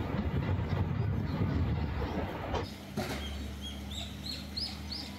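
A train running with a low rumble and irregular knocks. About two and a half seconds in, it cuts to a quieter steady hum with a small bird chirping several times.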